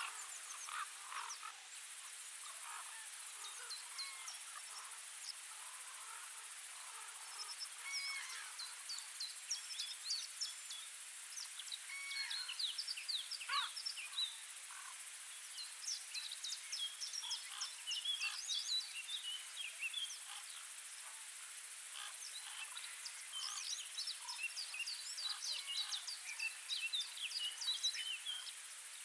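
Small birds chirping in short, quick notes that come in clusters and thin out again, over a steady high hiss.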